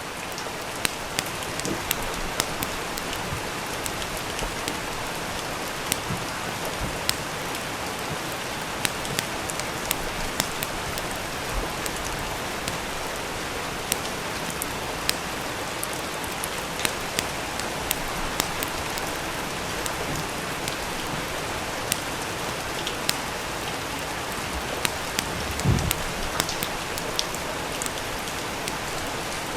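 Steady rain with a wood fire crackling over it: irregular sharp pops scattered throughout, and one louder, deeper pop near the end.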